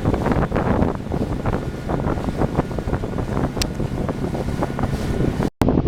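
Wind buffeting the microphone: a loud, rough rumble with constant crackling gusts, broken by a brief dropout near the end.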